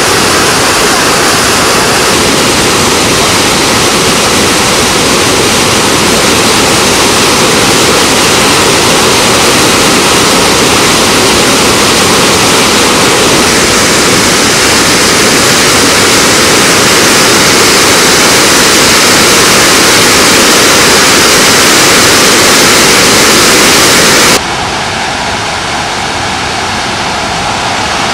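Krimml Waterfalls, swollen with snowmelt: a loud, steady roar of falling water. About 24 seconds in it cuts off abruptly to a quieter, duller rush of water.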